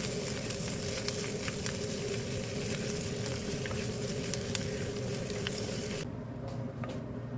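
Food sizzling in a hot frying pan, a steady hiss with a few light clicks and spatters. The sizzle drops away suddenly about six seconds in, leaving a low hum.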